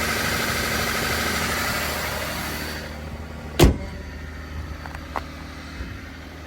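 Car engine idling with a low steady hum under a broad rushing noise that fades out about three seconds in. Then comes a single loud, sharp thump, followed by a couple of lighter clicks.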